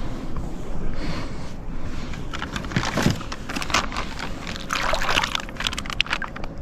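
Water sloshing and trickling in a few short spells, with scattered small clicks and knocks.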